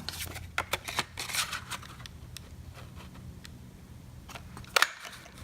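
Light paper rustling and small clicks as cardstock is handled and slid into a 1.5 inch circle punch, then a sharp snap near the end as the punch is pressed and cuts the circle out.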